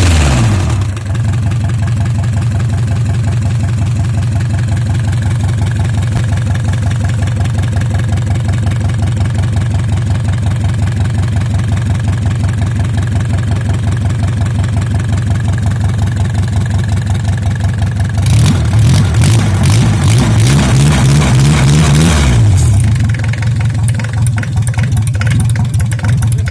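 Mercedes Sprinter 2.3-litre diesel engine settling to a steady idle about a second in. Near the end it is revved up and held for about four seconds, louder and higher, then drops back to idle.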